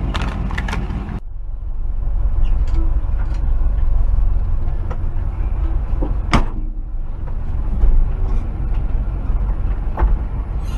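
1968 Chevrolet pickup being driven, its engine and road noise making a steady low rumble, with one sharp knock about six seconds in.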